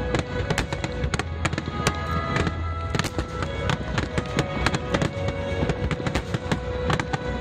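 Fireworks finale: a dense, fast run of aerial shell bursts and crackles, several a second, over music playing throughout.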